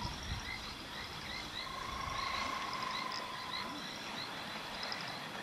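Frogs calling in chorus: many short, repeated rising chirps over a steady high trill that swells and fades.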